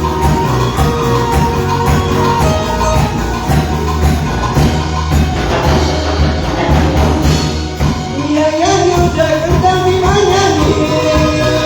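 Live band playing up-tempo Latin-style worship music with a steady beat and a sung or played melody.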